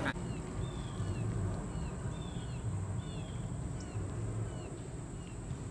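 A bird chirping over and over: short falling chirps, about two a second, over low background noise.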